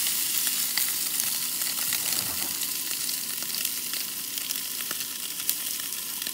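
Pulled chicken frying in hot oil in a cast iron skillet on a camp stove: a steady sizzle with frequent small crackles as handfuls of meat are dropped in.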